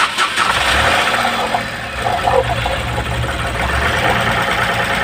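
Ashok Leyland Dost's three-cylinder diesel engine cranked on the self-starter, catching within about a second and then running steadily, its cylinder head freshly refitted and its timing reset.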